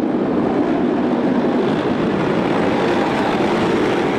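Steady, even rumble of a vehicle engine, with no change in pitch or level.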